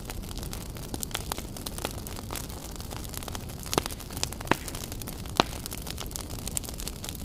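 Wood fire burning in a fireplace: a steady low rush with frequent crackles, and a few louder pops in the middle.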